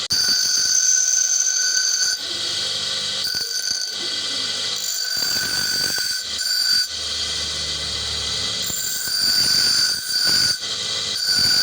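Power grinder working a small piece of steel: a steady high-pitched whine over a hiss, shifting in strength every second or two as the work is pressed and eased off.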